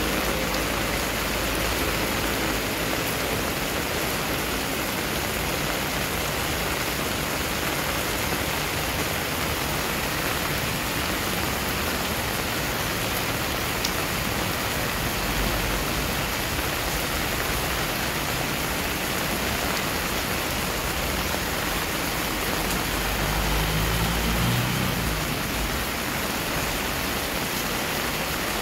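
Heavy rain pouring onto a paved driveway and garden foliage: a steady, even hiss of falling water splashing on the wet pavement.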